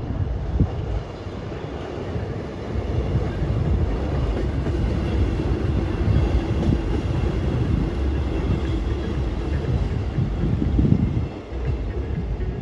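A car engine's low, uneven rumble, swelling and easing, with a brief drop about eleven seconds in.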